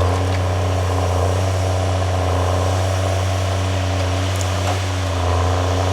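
Engine of a heavy forestry machine running at a steady speed, a deep even hum.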